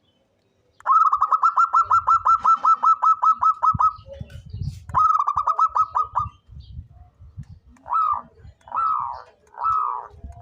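Zebra dove (perkutut) cooing. It gives a fast run of about six clipped, falling notes a second for about three seconds, then a shorter run after a pause, then slower, separate coos about one a second.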